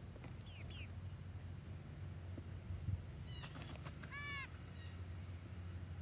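Garden birds calling: two quick chirps near the start, then a short, harsh, nasal-sounding call with many overtones a little past the middle. A steady low hum runs underneath.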